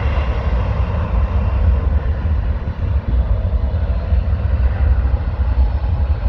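Jet airliner engines running on a departure, a steady far-off roar with a faint whine, mixed with heavy wind rumble on the microphone.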